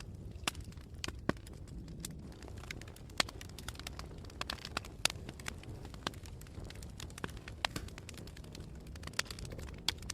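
Campfire burning: irregular sharp crackles and pops of burning wood, a few louder ones standing out every second or two, over a steady low rumble.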